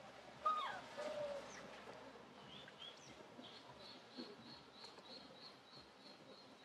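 Birds chirping in the background, one of them repeating a short high chirp about two to three times a second from about three and a half seconds in. A brief louder sound with a falling pitch comes about half a second in.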